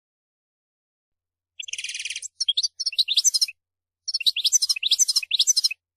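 European goldfinch singing. After a silent pause, a harsh buzzy note comes in about a second and a half in, followed by two runs of rapid, tinkling twittered notes.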